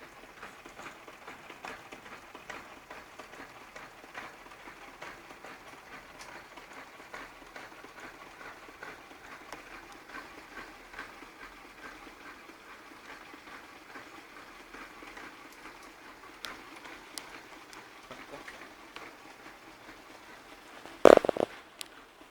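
Electromagnetic piston engine running, a fast steady clatter of clicks from its electromagnets and piston, with one brief loud clunk about a second before the end.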